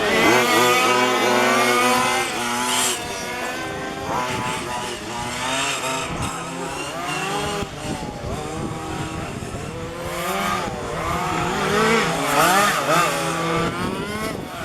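Small two-stroke petrol engines of 1:5-scale RC cars racing, several at once, revving up and falling off as they lap the track, with a sharp rise in pitch at the start.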